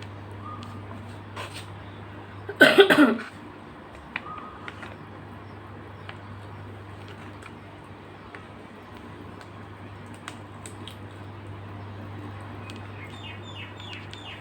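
A person coughs once, a short loud burst about two and a half seconds in, over a steady low hum, with scattered faint clicks.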